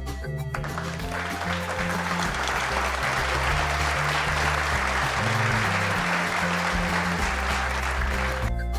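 Background music with a long stretch of applause over it, starting just under a second in and fading out near the end.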